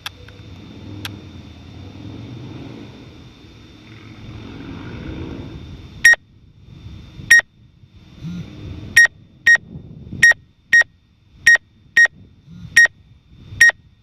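A low rumble of wind and handling noise with a faint steady high whine, then, from about six seconds in, a string of about ten short, sharp electronic beeps at uneven intervals, louder than everything else: the warning beeps of a drone's remote controller.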